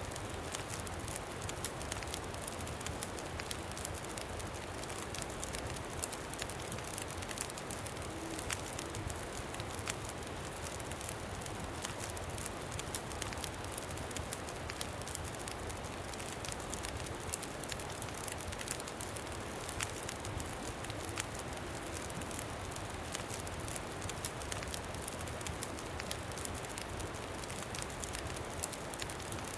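Campfire crackling with many small pops, over a steady low rush of wind.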